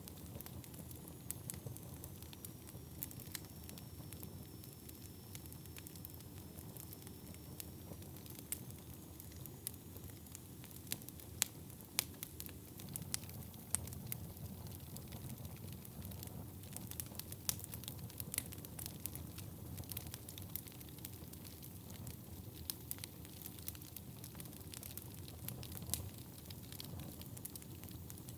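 Wood fire burning in a fireplace: a steady low rumble of flame with frequent sharp crackles and pops from the burning logs. A faint high whistle wavers in and out during the first third.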